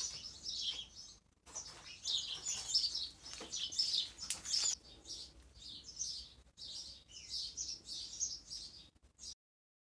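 Small birds chirping, a busy run of many short high chirps; the sound cuts off suddenly near the end.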